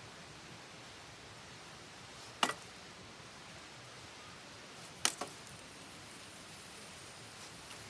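Wood campfire burning with a steady hiss, broken by two sharp crackling pops about two and a half seconds apart, the second followed by a couple of smaller snaps.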